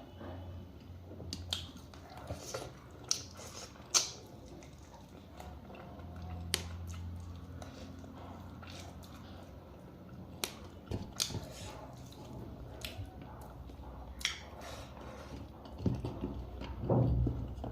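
Close-miked eating of chicken soup with rice: chewing, with many short sharp mouth clicks and smacks and a louder stretch of eating near the end. A low hum runs under parts of it.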